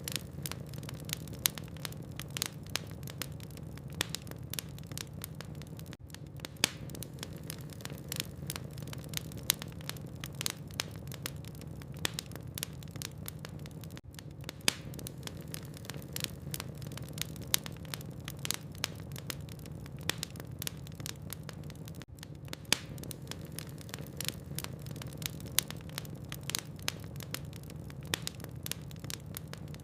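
Log fire burning in a fireplace: a steady low rumble under frequent, irregular sharp crackles and pops from the burning wood.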